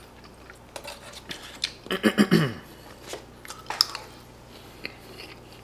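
Close-up eating sounds of a person biting and chewing pizza-topped pork cutlet, with scattered short mouth clicks and a brief vocal sound about two seconds in.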